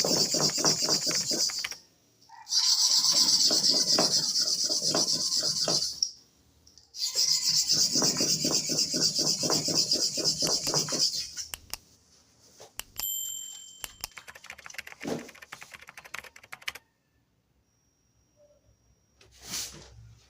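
Stone rubbed back and forth over an oiled sharpening stone in quick strokes, three long spells with short breaks, dressing the stone's surface between blade sharpenings. After about 11 seconds the rubbing stops, leaving a few light clicks and one brief scrape near the end.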